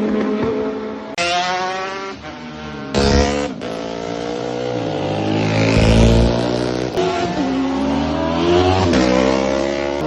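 Classic racing motorcycles at full speed on a road course, several passing in turn, each engine note rising and then falling in pitch as it goes by. The sound cuts sharply from one pass to the next, with a deeper, heavier engine note around the middle.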